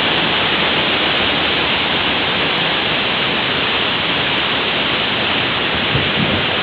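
Waterfall roaring steadily in heavy flow, a loud even rush of falling water.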